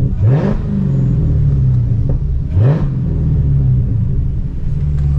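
Dodge Challenger Hellcat's supercharged 6.2-litre Hemi V8 running through a straight exhaust with the mufflers and mid pipes deleted, pulling steadily while driving. The engine note rises sharply twice, just after the start and about two and a half seconds in, as the throttle is opened.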